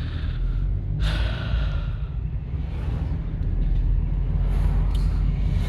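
Low steady rumble of a car's engine heard from inside the cabin, with a breathy rush of noise starting about a second in.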